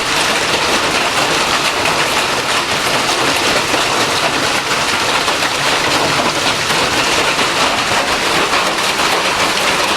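Hail and rain pelting down hard, a dense steady clatter of countless small impacts.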